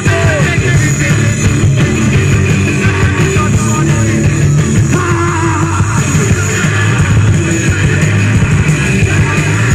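Loud live rock music: a band playing with guitar, bass and drums, with some singing or yelling mixed in.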